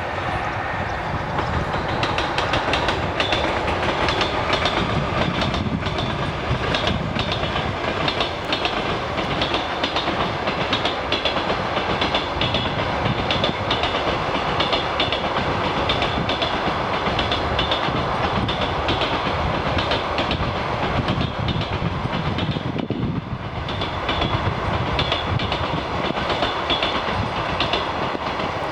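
EP1M electric locomotive and its passenger coaches rolling past close by, the wheels clattering over the rails with many quick clicks and a pulsing high metallic ringing. The noise dips briefly about 23 seconds in.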